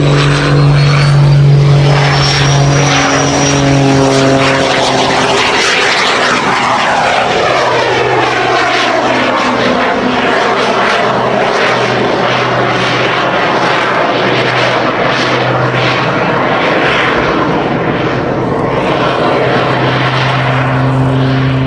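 Douglas C-41A's twin radial piston engines running loud and steady, with the pitch falling as the aircraft goes by about a third of the way in.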